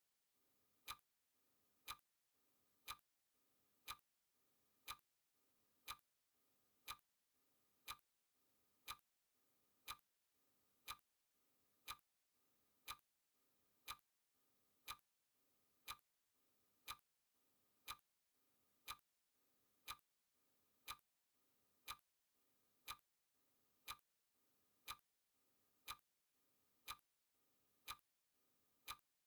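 Clock ticking sound effect, one crisp tick every second at a steady even pace, counting off the seconds of a countdown timer.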